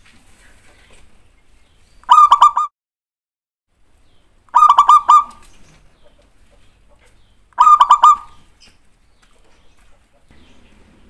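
Zebra dove (perkutut) cooing: three short phrases of three or four quick notes each, about two and a half to three seconds apart.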